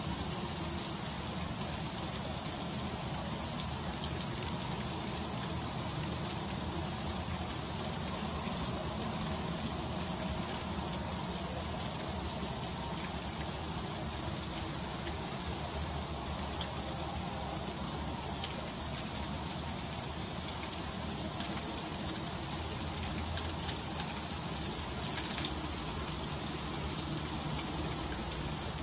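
Freezing rain falling in an ice storm: a steady high hiss with many tiny ticks of drops and ice striking surfaces.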